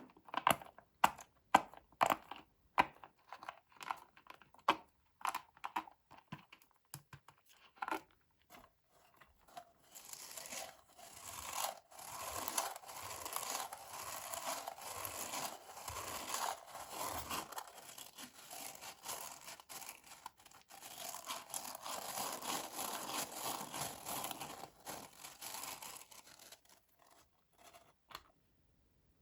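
Candy-toy packaging being opened: a run of sharp clicks for the first several seconds, then a long stretch of wrapper tearing and crinkling that fades out near the end.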